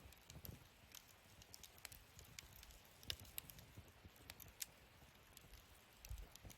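Wood fire burning in a fire stand, crackling faintly with scattered sharp pops, the loudest about three seconds in, over a soft low rumble.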